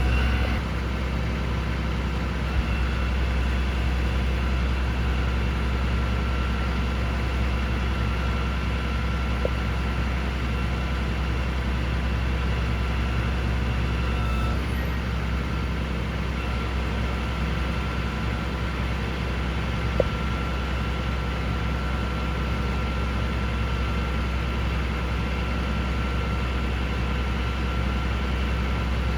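Cummins ISB 6.7-litre turbo diesel in a Ford F750 truck idling steadily, with a faint steady whine above the engine and a couple of small clicks.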